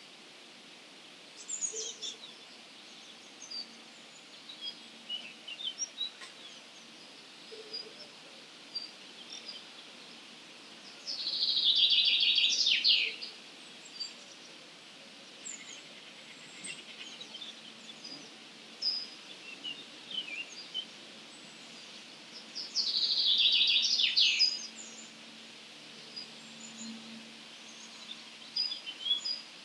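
Wild songbirds singing at dawn: two loud, high song phrases of about two seconds each, roughly ten seconds apart, with scattered faint chirps from other birds in between.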